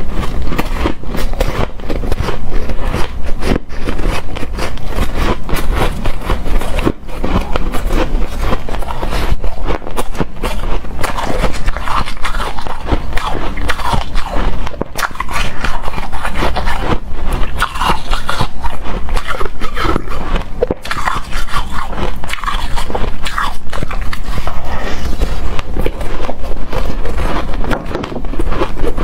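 Frozen shaved ice being scraped and crunched: a dense, continuous crackling and grinding of icy, frosty crystals.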